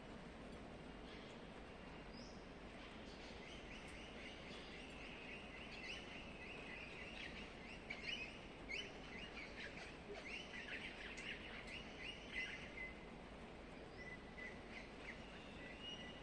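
A parrot chirping and chattering quietly: a run of quick, high chirps that starts a few seconds in, thickens in the middle and thins out near the end, over a faint steady hiss.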